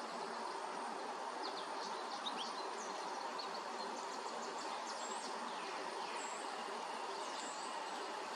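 Faint, short high chirps of small songbirds, scattered from about a second and a half in, over a steady outdoor background hiss.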